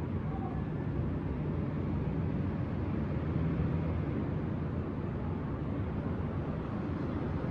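Steady low rumble of city traffic heard from a balcony, an even background hum with no single vehicle standing out.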